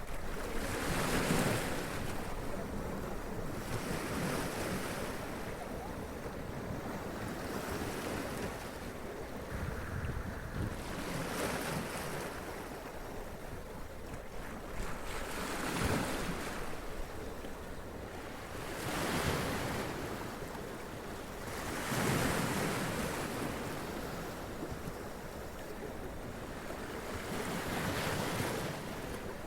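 Sea waves splashing and running up onto rocks, each wash swelling and falling back about every three to four seconds over a steady surf.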